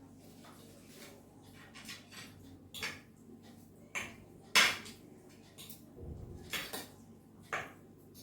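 Eating utensils clinking against bowls and plates during a meal: about half a dozen short scattered clinks, the loudest about four and a half seconds in.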